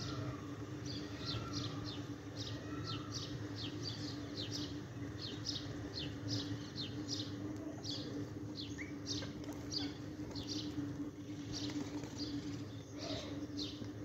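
Birds chirping in quick succession, short high calls at about two a second, over a steady low hum.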